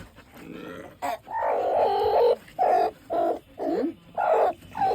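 Hen vocalizing: one long low call about a second in, then five short clucks about every half second.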